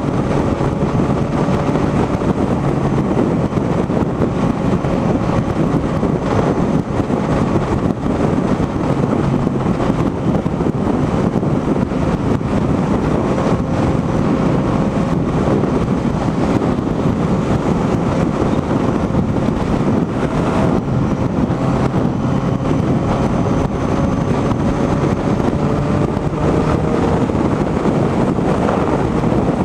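Motorcycle cruising at steady highway speed: heavy wind rushing over the microphone, with the engine's steady drone underneath.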